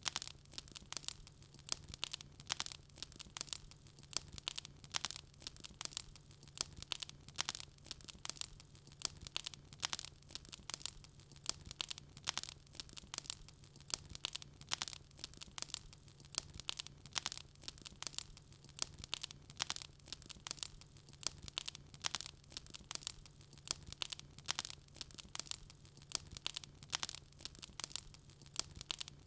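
Wood fire crackling: dense, irregular sharp pops and snaps, several a second, over a faint steady low hum.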